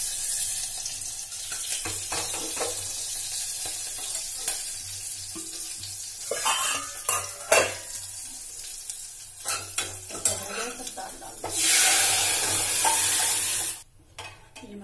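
Green chillies, cumin and onion sizzling in ghee in a small metal kadai for a dal tempering, with a metal spoon clinking against the pan from time to time. Near the end a louder hiss lasts about two seconds and then cuts off suddenly.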